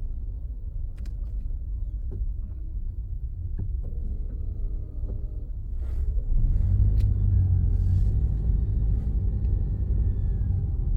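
Car driving on the road: a steady low rumble of engine and tyres, getting louder about halfway through.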